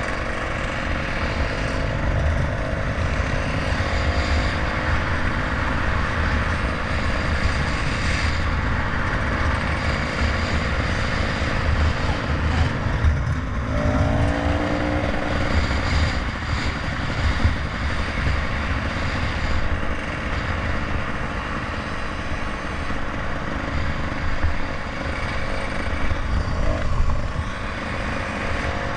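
Continuous noise of a bike on the move: a deep rumble with a rushing hiss, wind and road noise over the microphone. Halfway through, a short rising tone cuts in.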